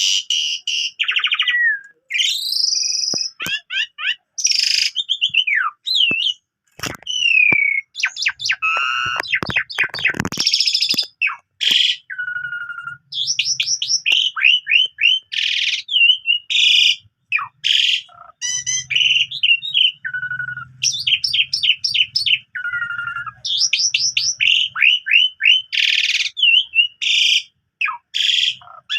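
Asian pied starling (jalak suren) singing without pause, a varied full song packed with mimicked phrases: clear whistles, fast rattling runs of repeated notes, gliding calls and sharp clicks.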